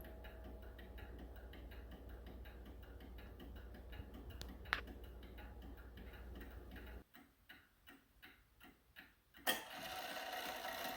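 Seth Thomas beehive mantel clock ticking steadily. There is a single click about halfway through, and a louder click near the end.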